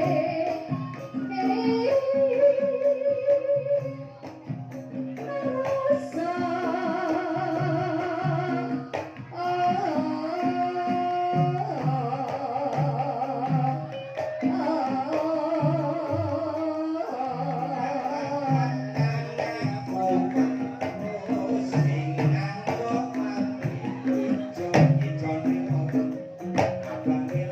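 Banyumasan gamelan ensemble playing a gending in the ebeg style: long wavering sung or held melodic notes over a steady repeating pattern of struck low notes.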